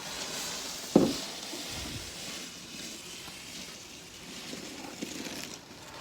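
Snow shovel scraping and pushing through snow, a hissing, gritty scrape with a sharp knock of the blade about a second in.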